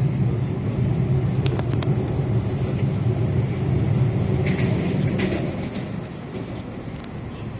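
Rumble of an EG2Tv 'Ivolga' electric train running on the rails, heard from inside the carriage, with a few sharp clicks. The rumble drops noticeably about six seconds in.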